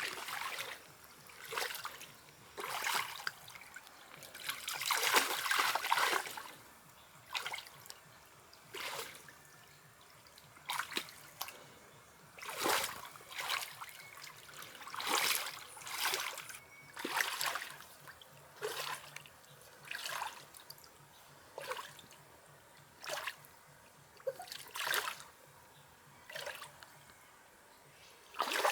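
Water splashing in short, separate bursts, about one every second or two.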